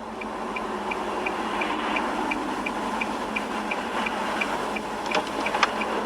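Car turn signal ticking about three times a second over steady engine and road noise; the ticking stops about four and a half seconds in.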